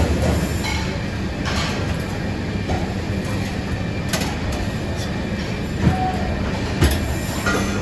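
Steady low mechanical rumble and hum of a working kitchen, with a few short sharp knocks and clatters in the second half.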